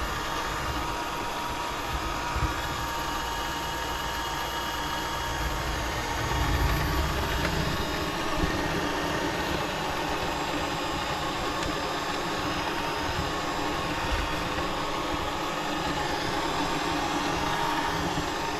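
Robot vacuum cleaner running as it cleans the floor: a steady motor and suction hum with a thin whine, briefly a little louder with a low rumble about six seconds in.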